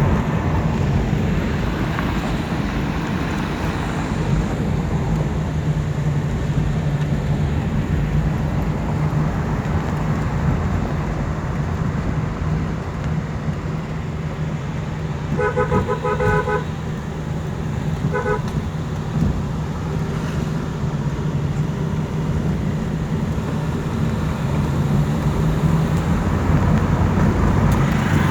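A car driving on the road: a steady low drone of engine and tyre noise. A little past halfway a vehicle horn sounds, one honk of about a second, then a short second honk.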